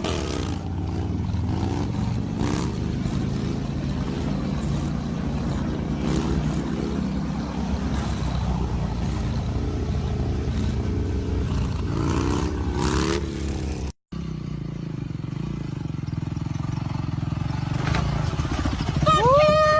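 Motorcycle engine running with the revs rising and falling, and a sudden break a little past halfway where the sound cuts to another stretch of motorcycle running. Near the end a short pitched sound that rises and falls cuts in over it.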